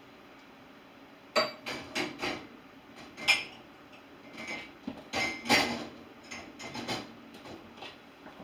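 Dishes and cutlery clinking and clattering as they are loaded into a dishwasher: a string of sharp knocks after a quiet first second, some leaving a brief ring.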